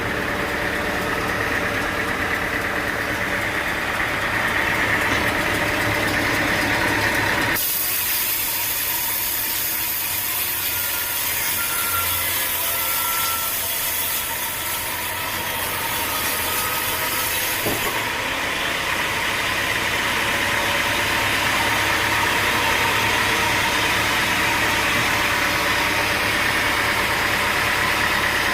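Sawmill machinery running steadily with an engine hum. For about ten seconds in the middle the low hum drops away and a loud, high hiss takes over, then the hum returns.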